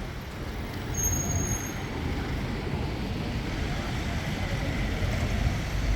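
Railway station ambience: the steady low rumble of a train, slowly growing a little louder, with a brief high-pitched tone about a second in.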